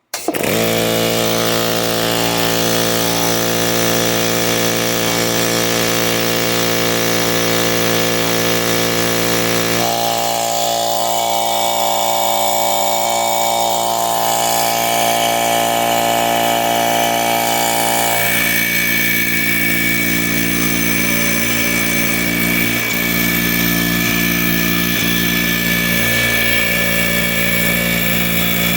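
Small Harbor Freight air compressor starting up and running steadily. Its intake sound changes abruptly about ten seconds in and again about eighteen seconds in, as it is run in turn with the stock air filter, with no filter, and with a larger Solberg intake filter.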